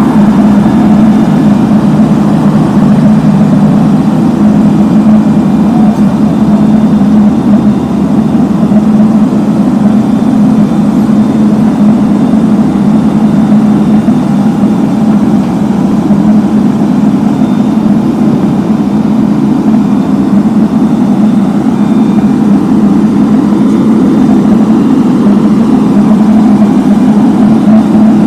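Engines of heavy road-paving machinery running steadily while asphalt is being laid: a loud, constant low hum that eases a little in the middle and strengthens again toward the end.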